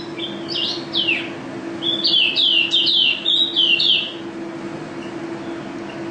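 A white-eye (pleci) songbird singing: runs of quick, falling high chirps, a short run at the start and a louder, longer one from about two seconds in, then stopping near four seconds.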